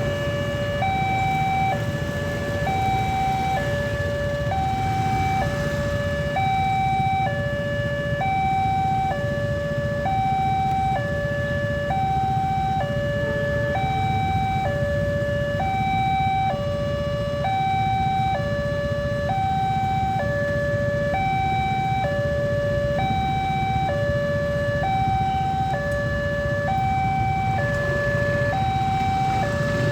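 Railway level-crossing warning alarm sounding while the barrier is down, the sign that a train is approaching. It is an electronic signal that alternates evenly between a high and a low note, each held just under a second, over a steady low rumble.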